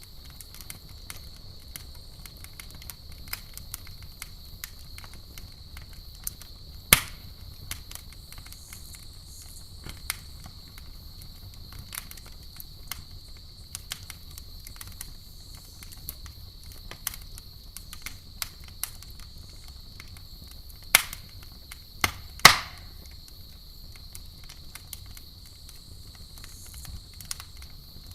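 Campfire crackling with dense small snaps and a few much louder pops, over a low steady rumble. Behind it, a steady high-pitched chirring of crickets.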